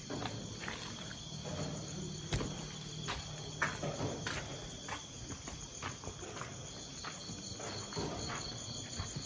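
Crickets chirring steadily in high, continuous tones, with scattered soft knocks and scuffs at irregular moments.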